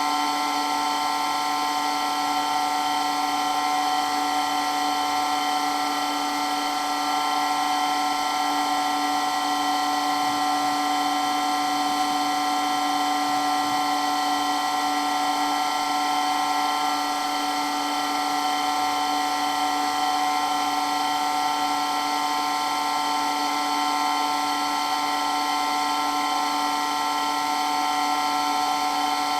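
Water pump running steadily, a loud, even whine of several held tones.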